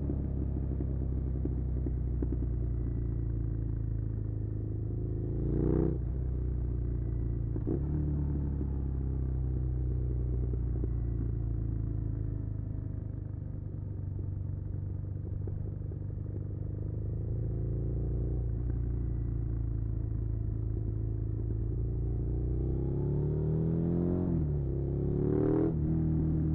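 Suzuki SV650's 90-degree V-twin engine running while riding. It revs up and shifts gear about six seconds in, then pulls steadily. Near the end it revs up again through two quick gear changes.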